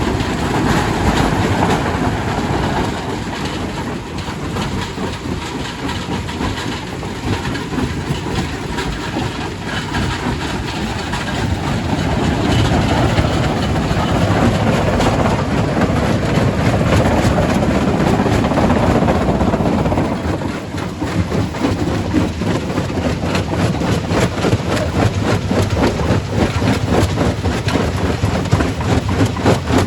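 Primary rock crusher crushing stone: a loud, continuous rumble thick with the rapid clatter and knocking of rocks breaking. About two-thirds of the way through the deep rumble drops away and the knocking turns choppier and more separate.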